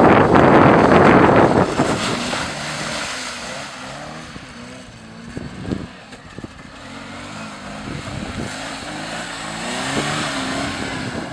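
Nissan Sentra's engine revving up and down, its pitch rising and falling repeatedly, as the car slides through a mud pit. A loud rushing noise fills the first two seconds, and there is a single sharp knock about six seconds in.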